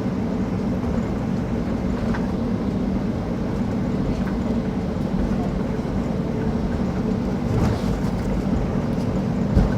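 Steady cabin noise of a Boeing 737-800 rolling on the ground after landing: engines running with a low hum and rumble. There is a short thump near the end.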